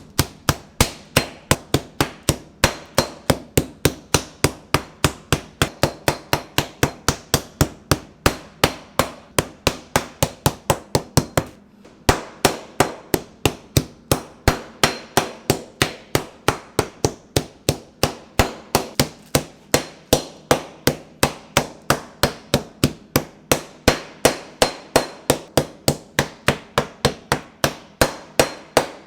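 Pork being pounded flat with a meat mallet for tonkatsu: steady sharp strikes at about three a second, with a brief break about twelve seconds in.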